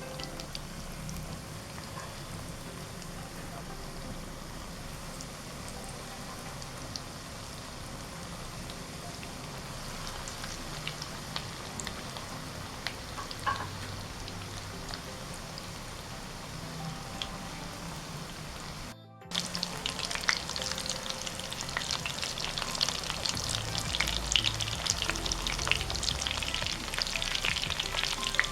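Breaded chicken nuggets deep-frying in hot oil: a steady sizzle with scattered pops. About 19 seconds in it cuts out for a moment, then comes back louder and denser.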